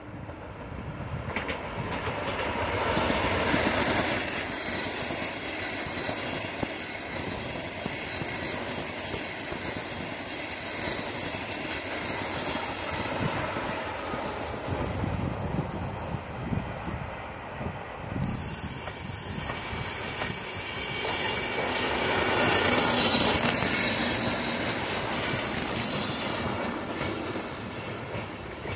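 Tarpan electric express train passing close at speed, wheels running on the rails. It grows loud about two seconds in and stays loud for some fifteen seconds, with a high thin whine over it. About eighteen seconds in the sound switches abruptly to a quieter rail vehicle going by, which swells again a few seconds later.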